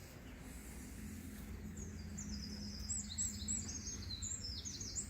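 A small bird singing a quick run of short, high chirps starting about a second and a half in, over a steady low background rumble.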